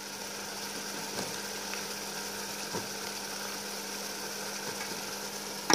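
Eggplant frying in oily tomato-onion masala in a pot: a steady sizzle over a low steady hum, with a couple of faint ticks.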